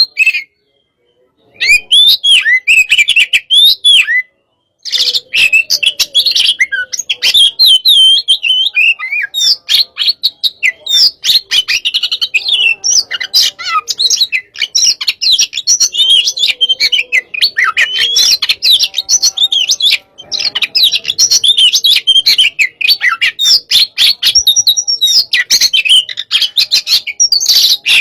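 Oriental magpie-robin (kacer) singing a fast, loud, continuous song of quick chirps, whistles and rattling notes, in the aggressive 'hot-type' style played to provoke other magpie-robins into song. It breaks off briefly about a second in and again about four seconds in.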